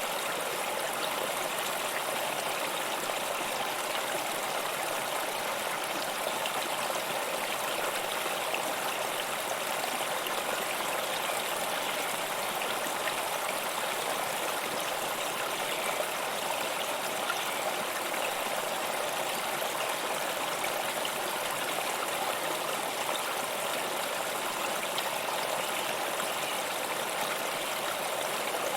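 Water flowing steadily, a continuous even rush with no breaks or changes.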